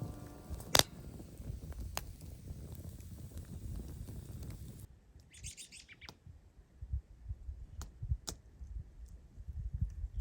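A small songbird chirping once, a short high run of notes about halfway through. Scattered low knocks and a rumble run beneath it.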